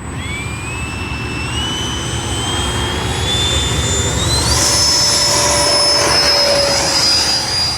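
Electric ducted fan of a model F-22 jet spooling up. Its high whine rises in steps over about four and a half seconds as the throttle is advanced, then holds at full pitch and grows louder.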